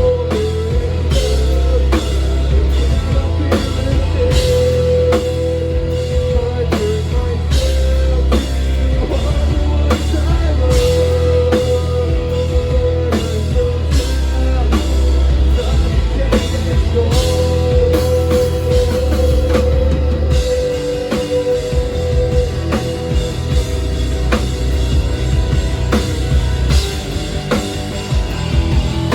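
Live rock band playing, with drum kit, guitars and bass, and a line of long held notes coming back three times. The heavy low end drops away about two-thirds of the way through while the drums keep going.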